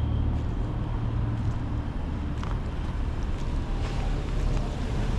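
Car running, with a steady low engine and road rumble heard from inside the cabin.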